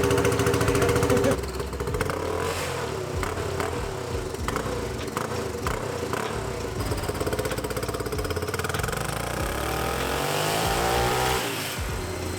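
Turbocharged single-cylinder Yamaha Raptor 660 engine on a chassis dyno. It runs unevenly at low revs with clattering for several seconds, then from about seven seconds in climbs steadily in pitch through a full-throttle pull, and drops off near the end.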